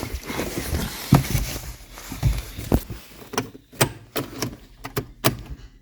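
A run of irregular clicks and knocks, with handling and rustling noises between them.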